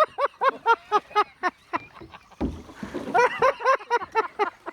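Men laughing hard in quick, high-pitched bursts, with a pause about halfway and a dull bump in the middle.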